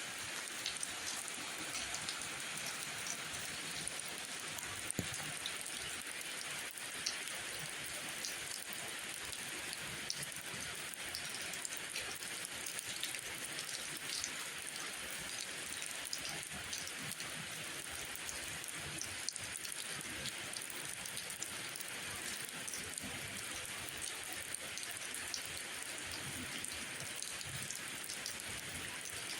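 Steady rainfall, an even hiss of rain with many small individual drop ticks scattered through it.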